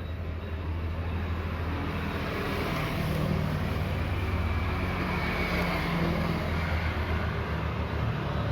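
Motor vehicle engine running steadily with road noise, slowly getting louder.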